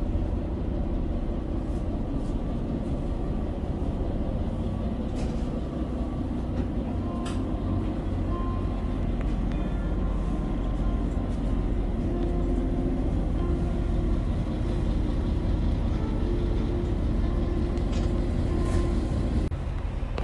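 Diesel railcar running along the line: a steady low rumble of engine and wheels on rails, with a few light clicks. A humming note comes in about halfway through and drops away just before the end, as the engine's note changes.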